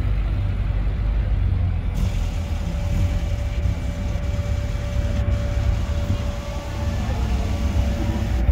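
A line of classic and modern Mini cars driving slowly past, engines running in a steady low rumble. A single steady tone is held for several seconds in the middle.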